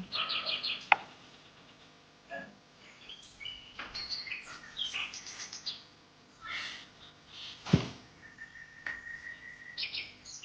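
Small birds chirping and trilling, with one whistled note held for about a second and a half near the end. Two sharp knocks cut in, about a second in and near eight seconds, the second the loudest sound.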